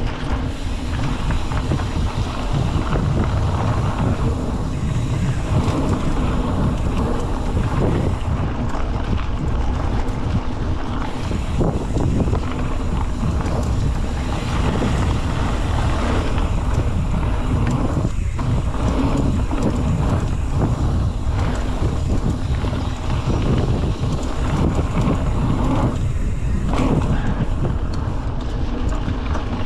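Wind buffeting a camera microphone: a steady, loud rumble that flutters irregularly, with no pitched tone in it.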